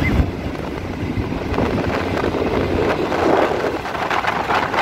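Running noise of a moving passenger train heard through an open carriage window, with wind rushing across the microphone.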